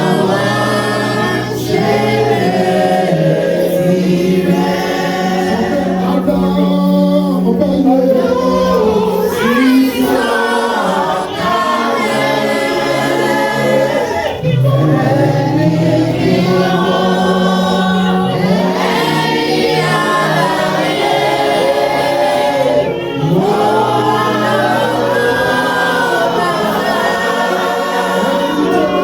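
Choir singing a gospel worship song over steady, held low accompaniment notes.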